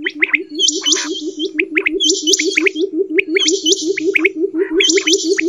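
Quail calls: a fast, steady low pulsing of about ten beats a second, with bursts of high chirps and short falling whistles repeating every second and a half or so.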